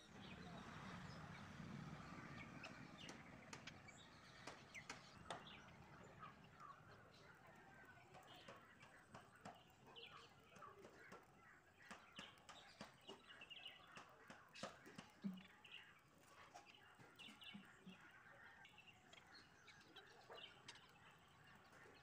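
Faint birdsong: scattered short chirps and clicks from birds in the trees, with a soft rustling haze in the first few seconds.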